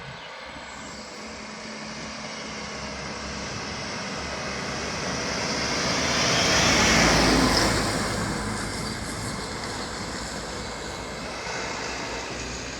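Heavy truck running at full throttle as it passes close by. The engine and road noise grow louder to a peak about seven seconds in, then fade away.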